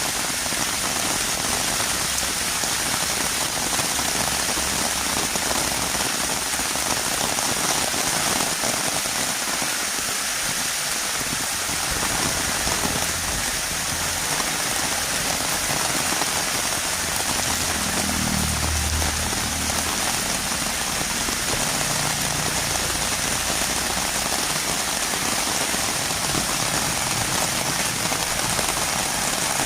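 Heavy rain falling steadily on a road, a dense even hiss of drops. A brief low rumble comes about two-thirds of the way through.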